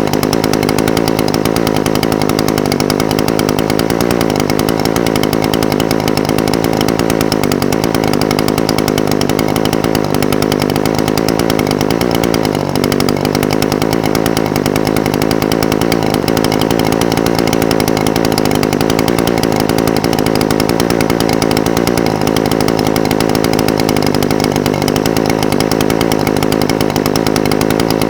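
Echo SRM-420TES brush cutter's two-stroke engine idling steadily, with a brief slight wavering of its pitch about twelve seconds in.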